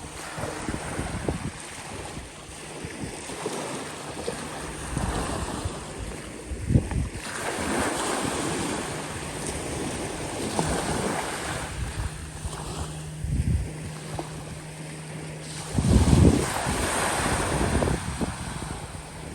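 Small bay waves washing onto a sandy beach, swelling and easing, with wind buffeting the microphone in low bumps, the strongest about 16 seconds in. A faint low hum comes and goes underneath.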